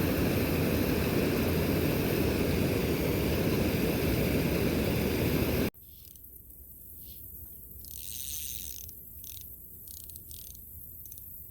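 Loud, steady rushing noise that cuts off abruptly a little over halfway through, leaving a much quieter background with a few faint brief hisses.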